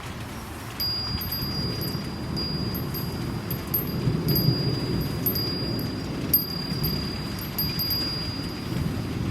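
Japanese wind chime ringing one high note, starting about a second in and struck again several times as it sways, over steady rain.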